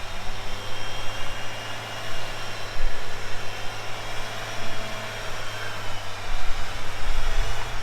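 Four-wheel drive's engine running steadily at low revs as the vehicle crawls in first gear, high range, over rocks.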